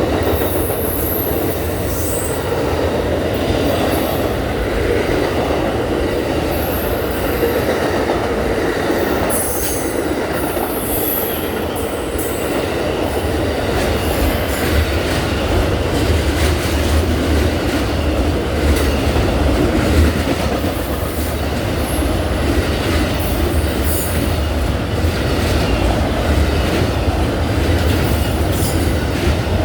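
Amtrak Auto Train 52's cars rolling past: a steady rumble and rattle of wheels on rail, with brief high wheel squeals now and then.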